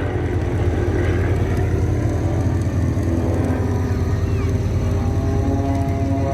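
Propeller-driven aerobatic aircraft engines droning steadily and low. About five seconds in, a clearer engine note with several steady pitches comes in.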